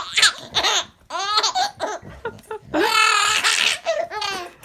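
A baby laughing hard, in several bouts of rapid high-pitched belly laughs with short breaths between them.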